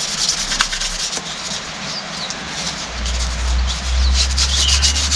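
Quick, rhythmic hand-sanding strokes of 1200-grit wet and dry paper rubbing the dirt off a hydraulic pump part. A low rumble joins in about three seconds in.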